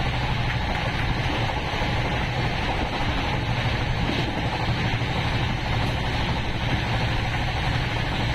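Steady rushing noise of an express train running at speed, heard from on board, with a constant low hum underneath.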